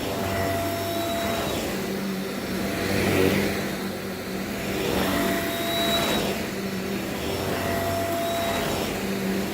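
Vacuum cleaner running steadily while sucking up dirt, its hum swelling and easing about every two seconds as it is pushed back and forth.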